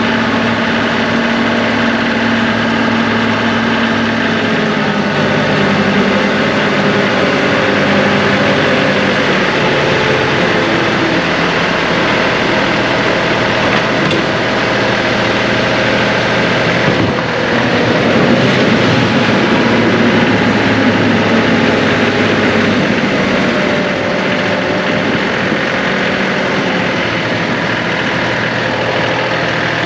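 John Deere 2038R compact tractor's diesel engine running steadily under work, its pitch shifting now and then. It dips briefly about halfway through, then runs a little louder for a few seconds.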